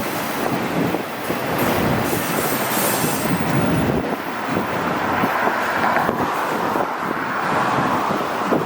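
Freight train of empty auto rack cars rolling past, steel wheels clattering over the rail joints.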